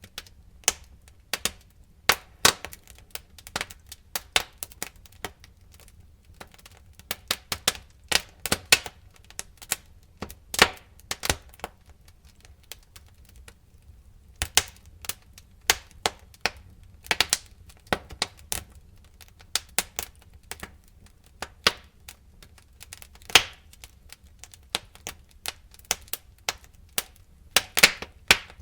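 Wood fire crackling in a fireplace: irregular sharp pops and snaps, sometimes several in a quick cluster, sometimes single louder cracks.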